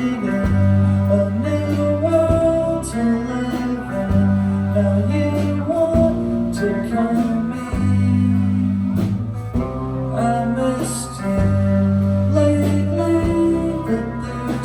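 Live band music: guitar chords over a bass line that changes note every couple of seconds.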